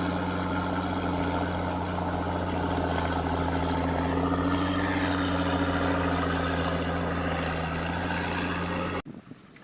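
Heavy vehicle engine running at a steady speed with a low, even drone, cutting off abruptly about nine seconds in.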